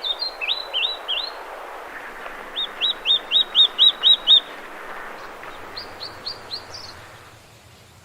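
A bird singing runs of short, rising whistled notes: a few near the start, a louder run of about eight at roughly four a second in the middle, and a shorter run near the end, over a steady background hiss that fades out about seven seconds in.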